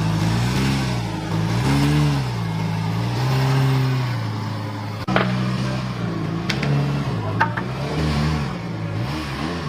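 Lamborghini Gallardo's V10 engine running at low speed, its pitch rising and falling several times with throttle blips. A sharp click about five seconds in, followed by a few light ticks.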